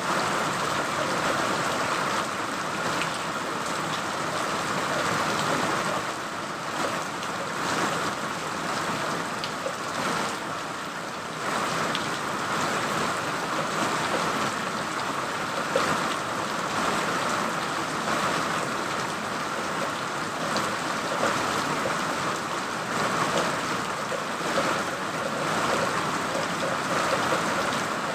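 Steady rain falling, a continuous hiss with many small drops pattering.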